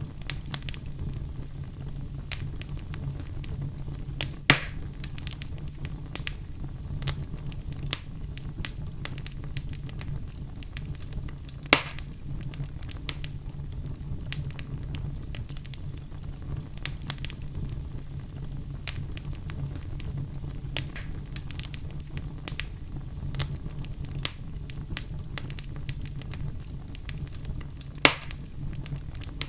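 Wood fire burning in a fireplace: steady crackling with many small ticks over a low rumble. Three sharp, louder pops come about four seconds in, about twelve seconds in, and near the end.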